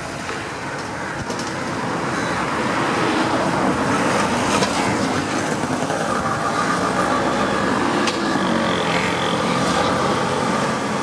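Road traffic passing close by: a steady rush of vehicle noise, with a vehicle engine becoming more prominent about halfway through.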